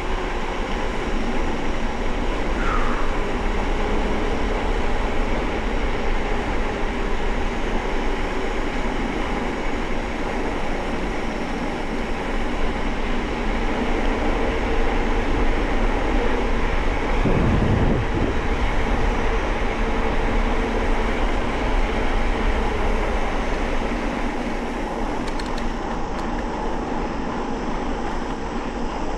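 Steady rushing, rumbling noise of riding a bicycle: wind buffeting the microphone and tyres running on a wet road, with a short rising chirp about three seconds in and a brief low swell near the middle.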